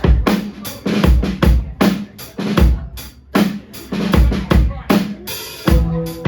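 Live drum kit playing a steady rock beat of kick and snare at the start of a song, with a short cymbal swell about five seconds in. Held pitched notes from other instruments join near the end.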